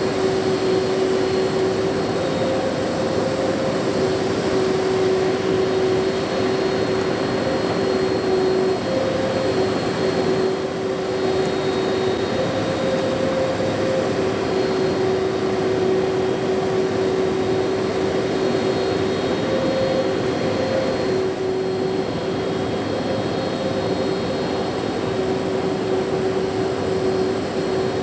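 Jet aircraft engine running steadily, a constant noise with a steady high whine over it.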